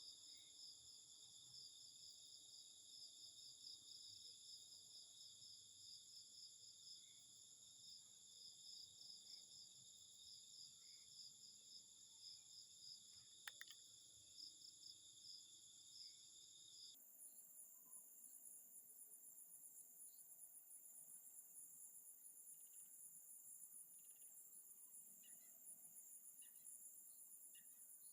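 Faint, high-pitched chirring of a chorus of crickets and other insects in several steady, pulsing layers. There is one sharp click about 13 seconds in. About 17 seconds in, the chorus changes abruptly and its lower-pitched layer drops out.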